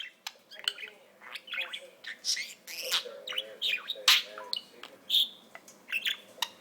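Pet budgerigar chattering: a rapid, unbroken string of short chirps, clicks and warbling notes.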